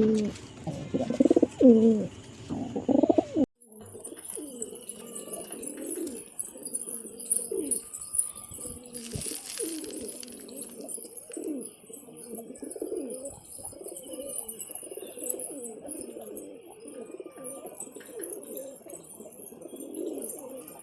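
Domestic pigeons cooing: one bird close and loud for the first three seconds or so, then after a sudden break several birds cooing more quietly over one another.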